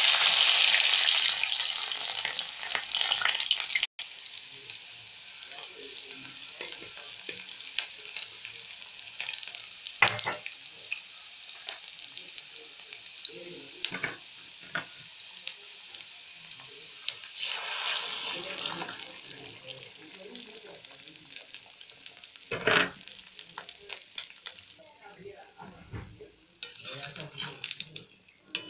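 Sliced onions hit hot oil in a pan: a loud burst of sizzling that fades over about four seconds, then steady frying with scattered taps and scrapes of a utensil. Near the end comes a fresh surge of sizzling as beaten eggs are poured in.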